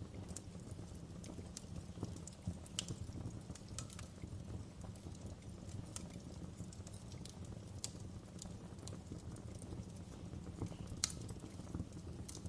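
Wood fire crackling in a fireplace: a low steady rumble of burning with irregular sharp pops and snaps, a few louder ones scattered through.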